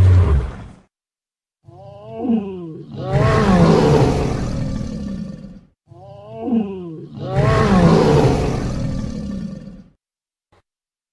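Dinosaur roar sound effect played twice, the same each time: a short cry falling in pitch leads straight into a long, rough roar of about three seconds. The tail of a deeper roar fades out just before the first.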